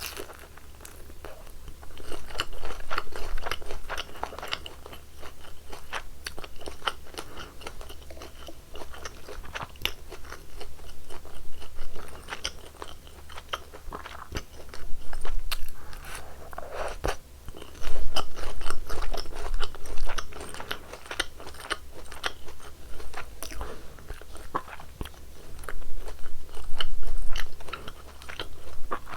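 Close-miked biting and chewing of crispy deep-fried glutinous-rice sweet-and-sour pork: dense crunching and crackling of the batter, coming in louder stretches as each bite is taken.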